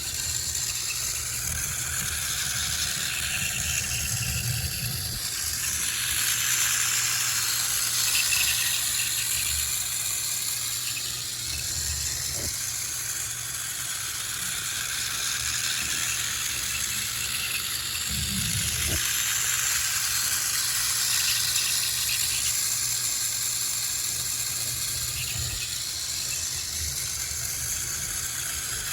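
Buddy L battery-powered M-gauge toy train running on its track. Its small motor and brass gears make a steady whirring rattle, and the pitch slowly wavers up and down.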